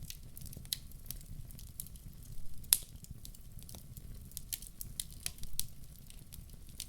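Wood fire burning in a fireplace, crackling with irregular sharp pops, the loudest about three seconds in, over a steady low rumble.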